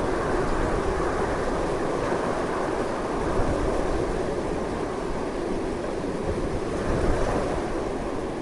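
Strong, continuous wind blowing, a steady rushing noise that swells slightly near the end, with low buffeting rumble.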